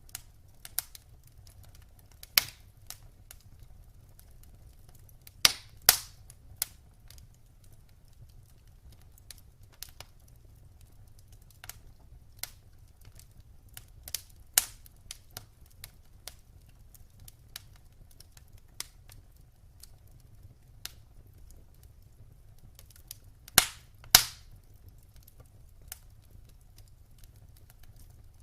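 Wood fire crackling in a fireplace: scattered sharp pops and snaps at irregular intervals, with a few loud pops in pairs about 6 seconds in and near the end, over a faint low steady rumble.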